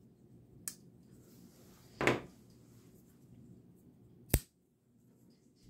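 Folding pocket knives being handled and set down: a faint click, a brief knock about two seconds in, and a sharp click a little after four seconds in, the loudest of the three.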